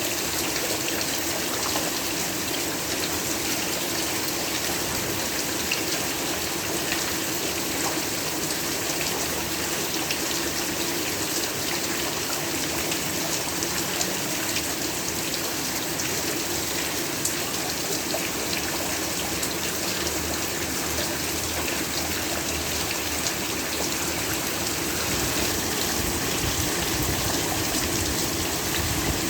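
Heavy rain falling steadily, a dense even hiss with many small drop ticks, a little louder near the end.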